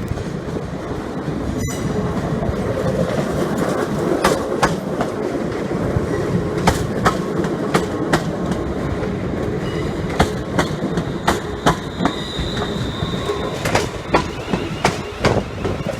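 Train rolling slowly through a station, a steady rumble with its wheels clicking sharply and irregularly over rail joints, and a faint high wheel squeal a little past the middle.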